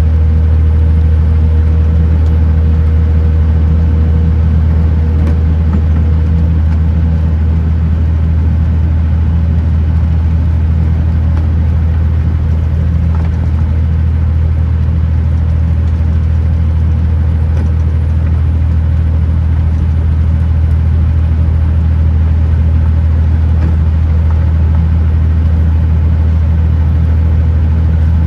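Kenworth T909 truck's diesel engine droning steadily at an even speed while the truck drives along the road. A faint steady tone above it fades out about six seconds in.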